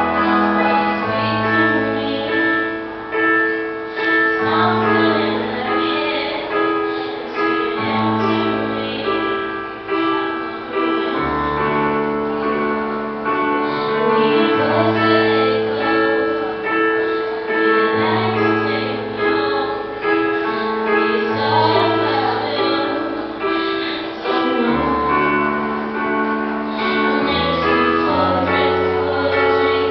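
Woman singing a slow pop ballad over a piano backing, with long held chords and bass notes that change every couple of seconds.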